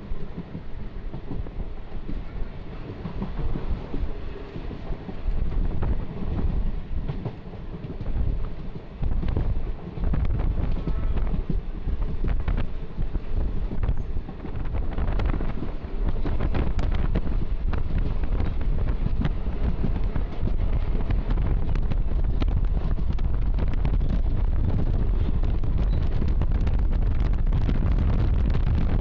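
Passenger express train running on the rails, heard from on board, with wind buffeting the microphone. The rumble is uneven at first, then steadier and louder from about halfway through.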